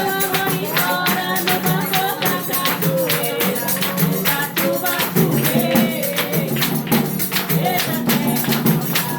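Samba chula music: singing over a fast, steady beat of jingling, tambourine-like hand percussion.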